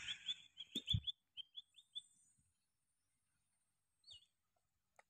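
A small bird chirping: a quick run of about ten short, high chirps over the first two seconds, then one more call about four seconds in. Two dull thumps are heard about a second in.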